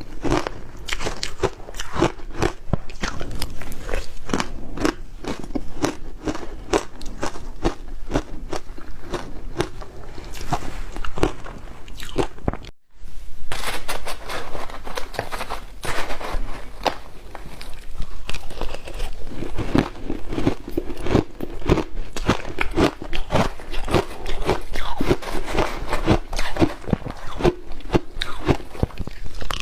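Close-up crunching of matcha-powder ice being bitten and chewed: a dense, irregular run of sharp crunches, with a brief break about thirteen seconds in.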